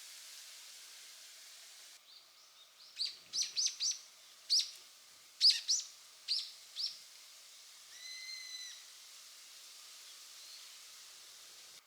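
Wild bird calling: a quick series of about ten sharp, falling chirps, then one short held whistled note. A steady hiss stops about two seconds in.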